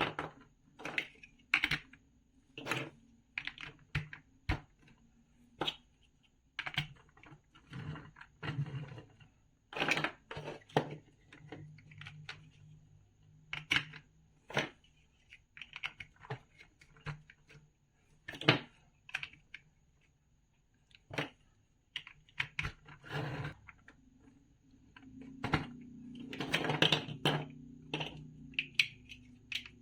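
Plastic toy building bricks being handled and pressed together, making irregular sharp clicks and taps. There is a busier spell of clattering and rummaging near the end.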